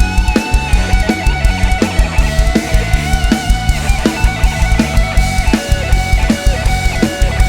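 Live band playing an instrumental passage: a steady, driving drum beat with heavy bass under a lead melody line whose notes bend in pitch.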